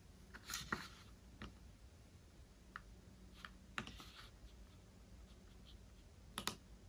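Faint, scattered light clicks and taps at irregular intervals, the loudest a quick double click near the end, over a low steady hum.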